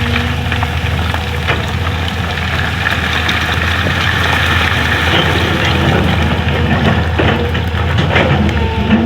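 Excavator's diesel engine running steadily, with scattered knocks and scraping as it works.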